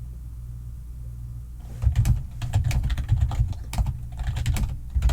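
Computer keyboard typing: a fast run of key clicks that starts about two seconds in, over a steady low hum.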